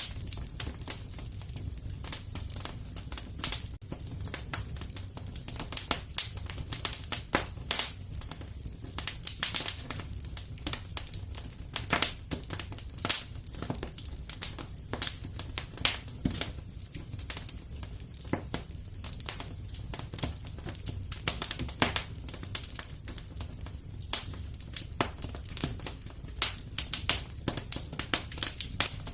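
Wood fire crackling steadily in a fireplace: irregular sharp pops and snaps, several a second, over a low steady rumble of the flames.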